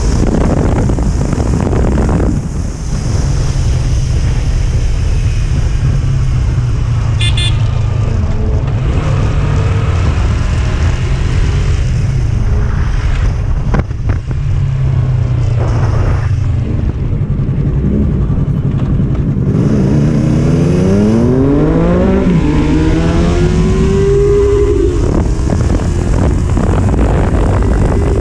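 Triumph Street Triple's inline-three engine running under heavy wind rush while riding, at a steady pace for a while. From about two-thirds of the way in it accelerates hard, its pitch rising in several sweeps through the gears.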